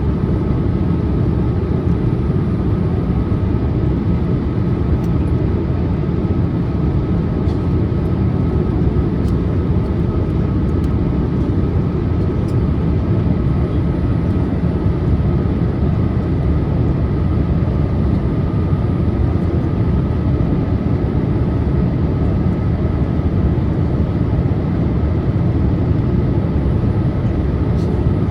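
Steady cabin noise inside a Boeing 787-8 Dreamliner descending on approach: a constant rush of engine and airflow noise, heaviest in the low end, with a faint steady high whine.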